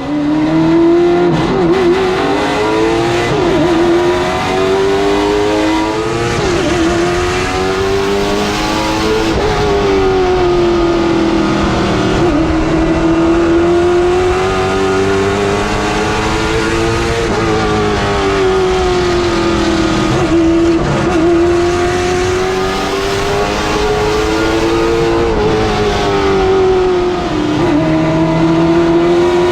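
A late model stock car's V8 engine at racing speed, lap after lap: the pitch climbs steadily, then drops sharply as the driver lifts for a turn and picks up again on the way out, repeating every few seconds.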